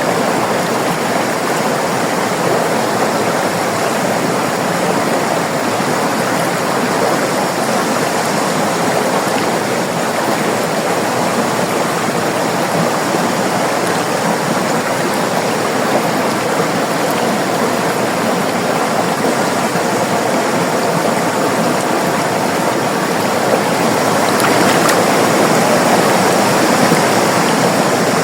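River water flowing and rushing over rocks: a steady, even rush, swelling slightly a little before the end.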